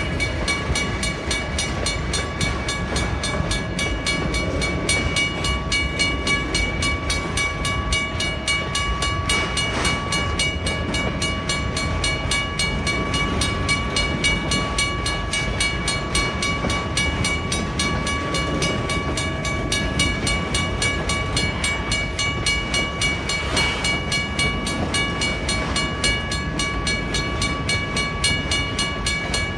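WRRS mechanical railway crossing bell ringing steadily in rapid, even strokes, over the low rumble of a train on the crossing.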